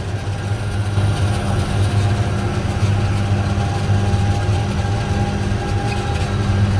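John Deere 7920's 8.1-litre six-cylinder diesel engine running at a steady speed with an even, deep drone.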